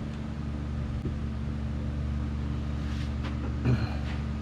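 Steady low machine hum in a shop, with a light knock about a second in and a short clatter of knocks near the end as parts are handled.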